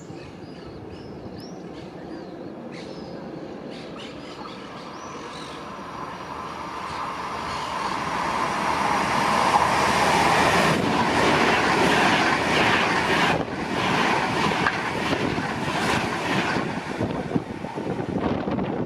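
A train approaching and passing through a station. Its wheel-on-rail noise builds from about six seconds in and is loudest from about ten seconds in to the end. Birds chirp briefly near the start.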